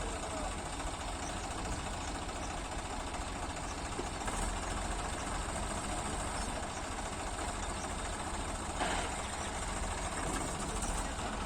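Tractor engine running steadily at a low, even speed, with a short knock about nine seconds in.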